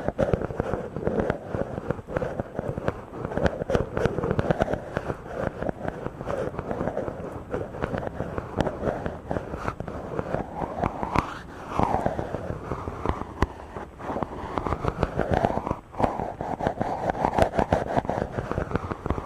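Hands rubbing directly on a microphone, making a dense, scratchy crackle. Swishing sweeps rise and fall as the strokes change, most clearly about eleven seconds in and again near the end.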